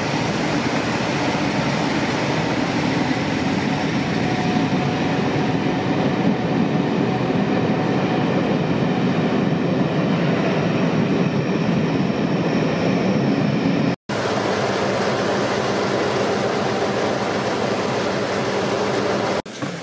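A train running on the rails, a dense steady noise. It cuts off abruptly about fourteen seconds in, giving way to a steadier hum of stationary engines running with a few low tones.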